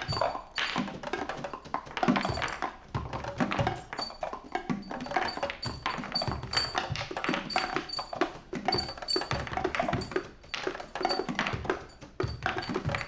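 Band music: busy drumming with many quick sharp hits over bass and guitars.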